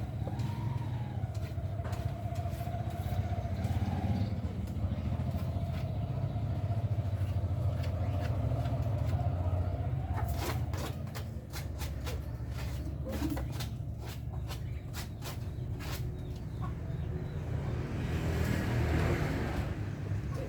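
A steady low engine rumble from a motor vehicle runs throughout, with a wavering whine over it for the first half and a swell near the end. About halfway in comes a run of short, sharp lovebird calls.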